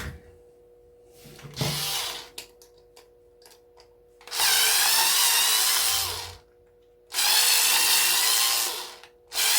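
Handheld electric drill running in two spells of about two seconds each, with a shorter whirr before them, as it works on an old electrical plug to get the brass out.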